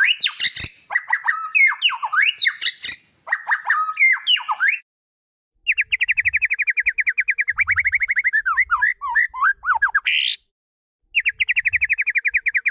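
White-rumped shama (murai batu) singing: varied whistled phrases with sliding notes, then after a short pause a fast run of repeated notes that breaks into downward-swooping notes. The run starts again after another brief pause near the end.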